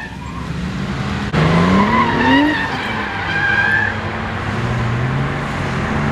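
Drift car's engine revving through a slide with tyres skidding. About a second in it gets suddenly louder and the revs climb, then it settles into a steady drone.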